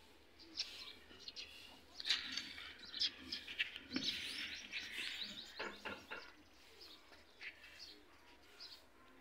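Birds chirping in rapid runs of short high calls, busiest in the middle, with a few light clicks among them.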